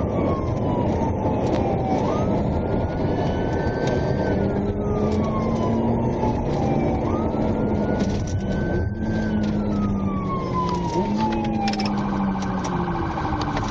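Police cruiser siren wailing during a high-speed pursuit, its pitch rising and falling slowly over heavy engine and road noise. Near the end it switches to a fast yelp.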